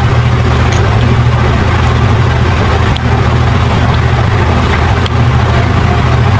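Steady low drone of an engine running at idle, with a few faint light clicks.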